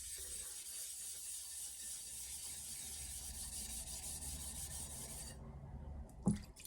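A soaking whetstone being cleaned: a steady hiss that stops suddenly about five seconds in, followed by two light knocks.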